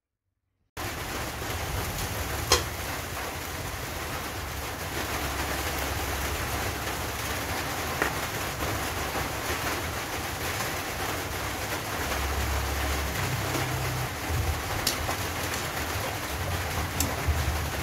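Vegetables stir-frying in a hot wok: a steady sizzle, with a few sharp clicks of a metal spatula against the pan.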